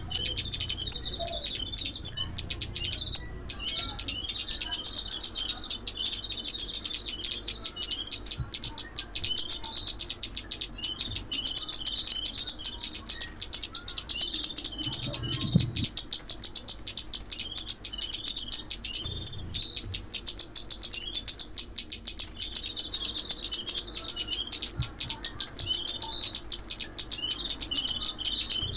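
Lure recording of chim ốc mít birdsong: rapid, high twittering chirps in near-continuous runs, with a thin steady high tone held under them from a few seconds in.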